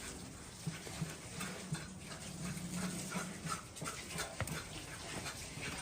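An animal breathing hard and making low sounds, with scattered small clicks.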